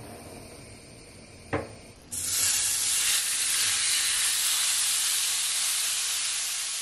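Marinated chicken pieces tipped into a hot oiled pan, frying with a loud sizzle that starts about two seconds in and eases slightly toward the end. Just before it there is a single short knock.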